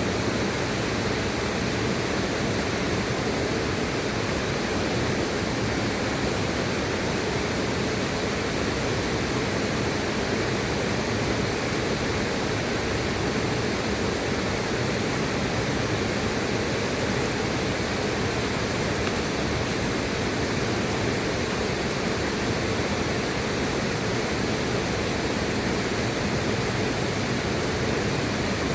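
Steady rushing of a flowing river, an even unbroken water noise with no distinct splashes or events.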